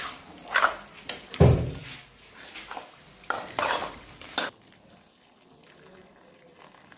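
Metal cooking utensils and pots clattering and scraping during cooking: a run of sharp knocks over the first few seconds, the loudest a heavy thud about a second and a half in, then it goes quiet.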